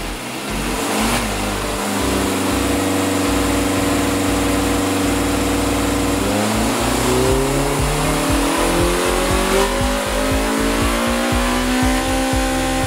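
Honda B18C5 VTEC inline-four, the USDM Integra Type R engine, on a hub dyno with a CT-Engineering IceBox intake. It gives a short blip, holds steady revs for a few seconds, then pulls at full throttle with the pitch climbing steadily toward high rpm.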